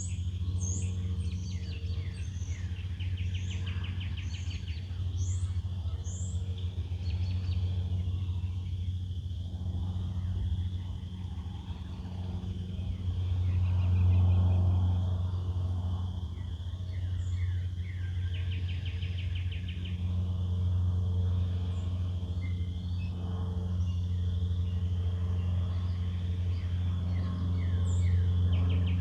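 Wild birds singing in woodland: scattered high chirps and a few short rapid trills, over a steady low hum that is the loudest sound throughout.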